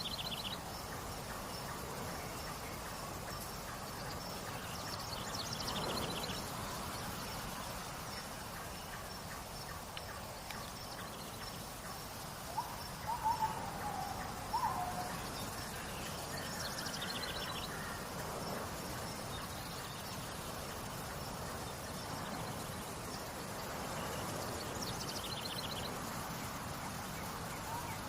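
Steady trickling water with a bird repeating a short high call about every eight to ten seconds, a faint steady high insect trill, and a few lower chirps about halfway through.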